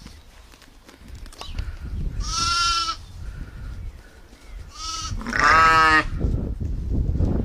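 Bleating animal, three calls: one about two seconds in, a short one near five seconds, then the loudest, ending about six seconds in. A low rumbling noise grows louder under the later calls.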